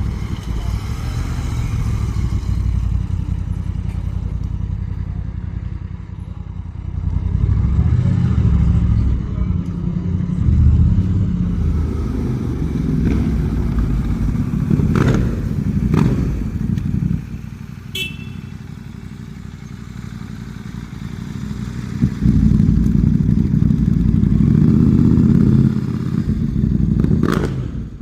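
Several motorcycle engines running at a low rumble, swelling louder twice as bikes ride in, with a few sharp cracks in the middle and near the end.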